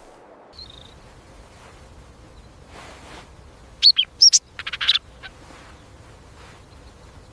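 A bird calling: a quick run of sharp, high chirps and a short trill about four seconds in, over a faint natural background.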